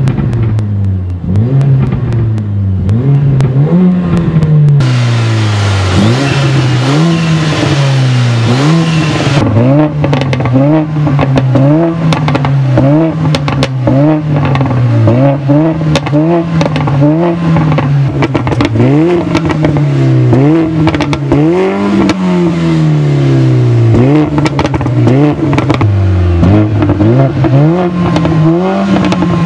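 Mercedes A45 AMG's turbocharged 2.0-litre four-cylinder engine revved over and over while stationary, its pitch rising and falling about every second and a half. Sharp crackles from the exhaust come between the blips, more of them from about a third of the way in.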